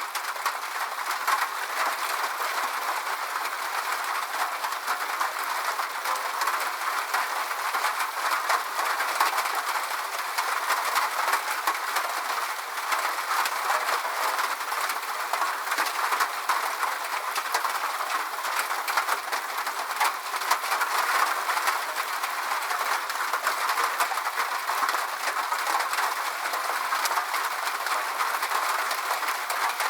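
Steady rainfall: an even hiss with a dense patter of fine drop ticks.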